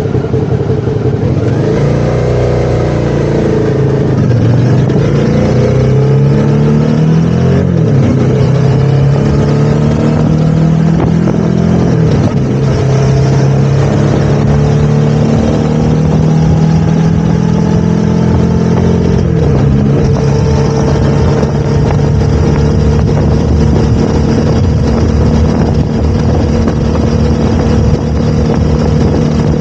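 Suzuki motorcycle engine under way: its pitch rises with speed and drops sharply several times at gear changes, then holds a steady cruising note for the last ten seconds.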